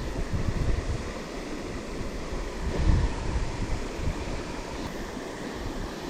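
Small mountain stream running steadily, with wind buffeting the microphone in low gusts, the strongest about three seconds in.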